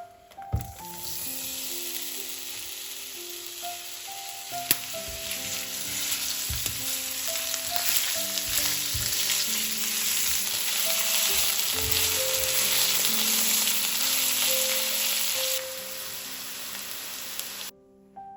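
Food sizzling as it fries in oil in a pan, with a couple of knocks of a utensil against the pan, one early and one about a third of the way in. The sizzle cuts off suddenly near the end.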